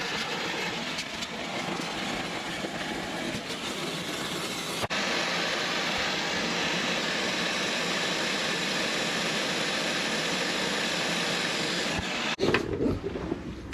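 Vacuum cleaner running steadily, sucking rat's-nest debris out of the valley between the engine's cylinder heads. The sound breaks off sharply just before five seconds in, then resumes, and it stops about a second before the end.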